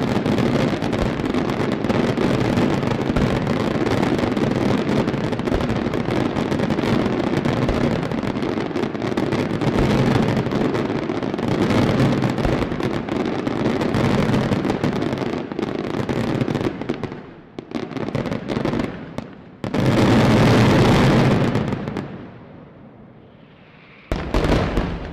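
Daylight fireworks display: a dense, continuous barrage of exploding shells and salutes. About two-thirds of the way in it breaks up into separate volleys, with one loud burst lasting about two seconds and a last short burst near the end.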